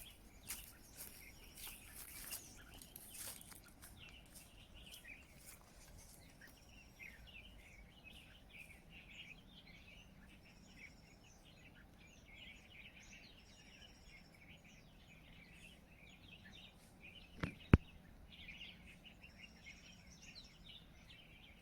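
Small birds chirping and twittering steadily, with short whistled notes repeated every second or two over them. A few faint rustles in the first few seconds and one sharp click near the end, the loudest sound.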